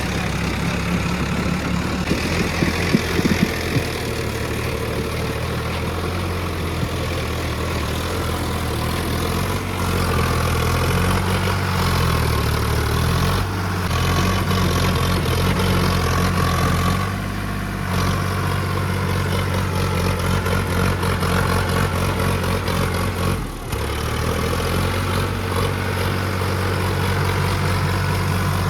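Diesel tractor engine running steadily at idle, its pitch wavering up and down for a few seconds midway, with a brief drop in level about three-quarters of the way through.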